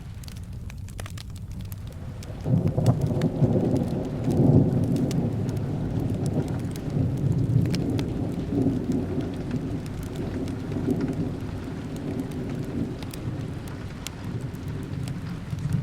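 Steady rain with a long roll of thunder that starts about two and a half seconds in, is loudest over the next few seconds, then slowly dies away. Small crackles from a fireplace pop through the rain hiss.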